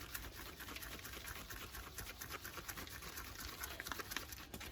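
A small plastic bottle of Chemical Guys V36 cutting polish being shaken to mix it: a quick, irregular run of soft clicks and sloshes.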